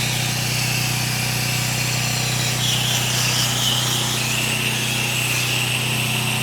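Pressure washer running steadily with a constant low hum, the wand's spray hissing as water runs through the long hose while the downstream injector draws soap that has not yet reached the nozzle.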